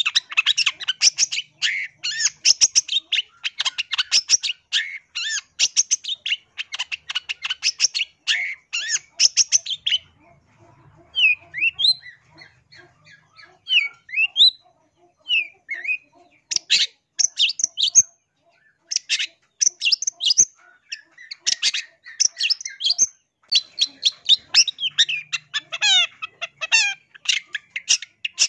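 Long-tailed shrike (cendet) singing in fast, harsh chattering runs. For a few seconds in the middle the runs give way to sparser short rising whistles, then the chattering picks up again.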